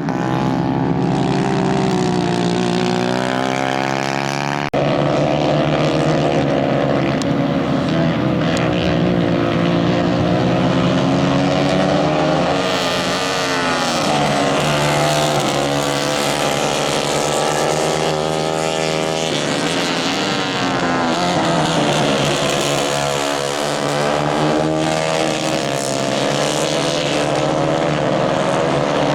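Several 150 cc Kayak race karts' engines running together, their pitches rising and falling as they rev through the gears and corners. About five seconds in the sound breaks briefly, as if cut, and then carries on.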